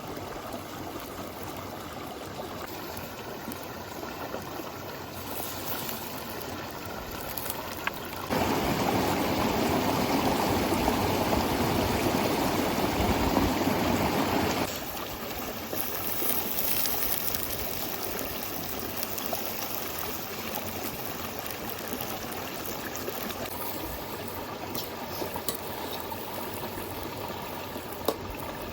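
River water flowing steadily. For about six seconds in the middle it is louder and fuller, starting and stopping abruptly.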